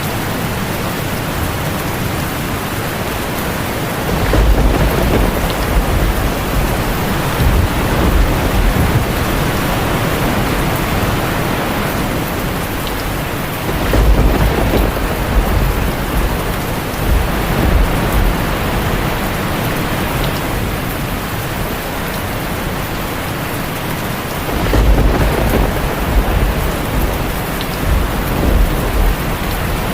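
Heavy rain falling steadily on a tin roof, with rolling thunder rumbling in three times: about four seconds in, near the middle, and again near the end, each roll lasting several seconds.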